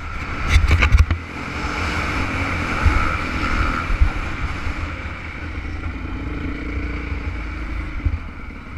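Motocross bike engine running at steady revs under a blustery rush of wind on the microphone, with a few sharp knocks about half a second to a second in.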